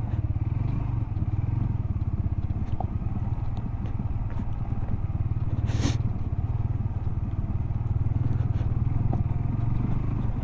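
Motorcycle engine running steadily at low revs in first gear on a steep gravel descent, the engine holding the bike back, with small stones ticking under the tyres. A short rush of noise about six seconds in.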